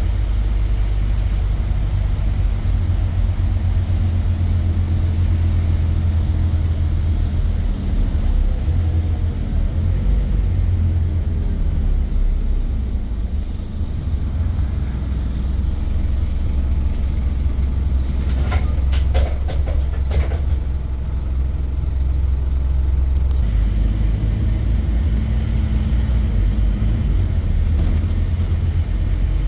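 Scania N230 bus's diesel engine running under load, its revs falling away about a third of the way in. It then runs at a lower, quieter level, with a brief cluster of sharp sounds and higher tones a little past halfway. Near the end it picks up strongly again as the bus pulls away.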